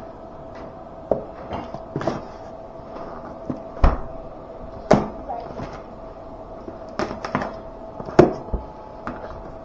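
Box and packaging of a diagnostic tool kit being opened and handled: irregular knocks, taps and rustles, the loudest about four, five and eight seconds in, over a faint steady hum.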